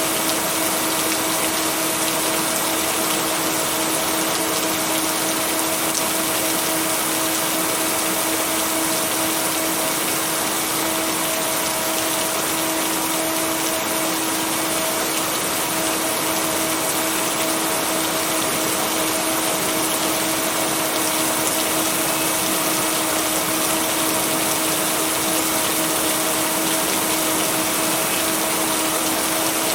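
Steady heavy rain, an even unbroken hiss, with a low steady hum of two held tones beneath it from the blended-in binaural beats.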